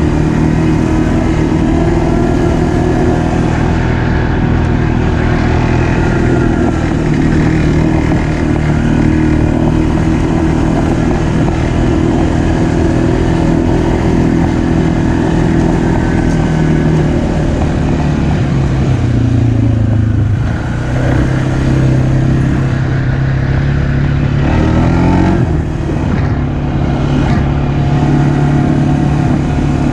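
ATV engine running steadily at a low, even speed. Its pitch drops slightly about two-thirds of the way through and steps back up a few seconds later.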